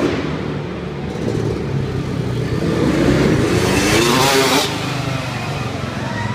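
Motocross dirt bike engine revving, its pitch climbing for about two seconds and then cutting off sharply just past the middle, over a steady engine drone.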